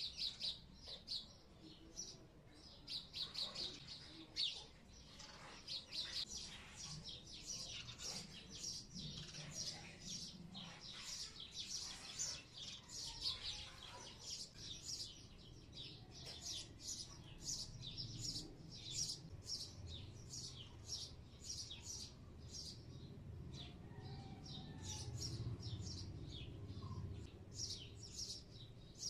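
A small bird chirping over and over, many short quick chirps in runs.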